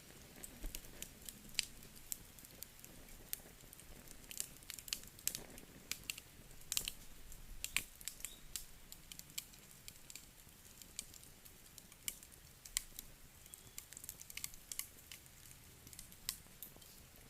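Wood fire crackling in a fireplace: irregular sharp snaps and pops, several a second, over a faint hiss.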